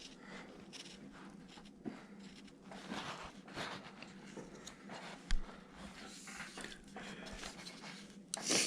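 Faint, irregular scraping and slicing of a carving blade cutting into wood, as the fingers of a small carved figure are trimmed narrower, with one soft knock about five seconds in and a louder scrape near the end.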